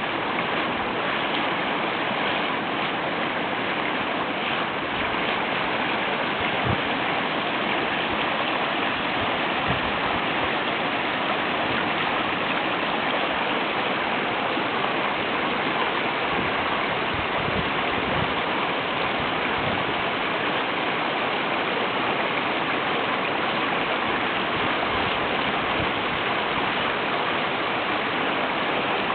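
Steady rushing of flowing water, like a stream, with a few faint low knocks.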